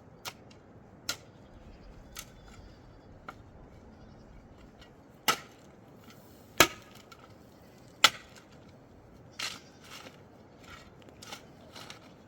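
A series of sharp chopping strikes, about a dozen at uneven spacing, with the three loudest near the middle about a second and a half apart.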